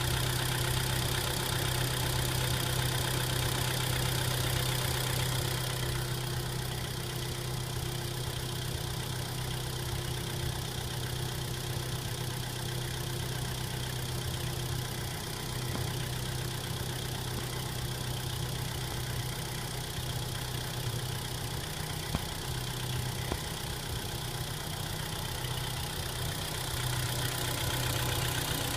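Engine idling steadily after a cold start, with a steady low hum. It drops a little in loudness about six seconds in and picks up again near the end.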